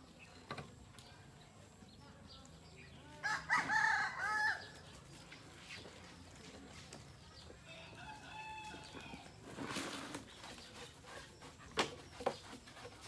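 A rooster crows, loud and clear, about three seconds in, and a fainter crow follows around eight seconds in. A couple of sharp knocks come near the end.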